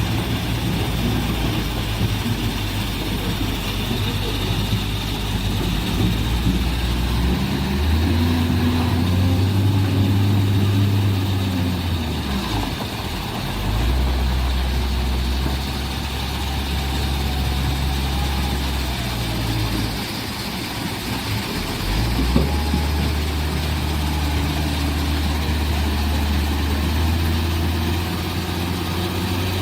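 Heavy diesel engine of a large excavator running, its low drone stepping up and down in pitch and level several times as the load changes. A single short knock sounds about two-thirds of the way through.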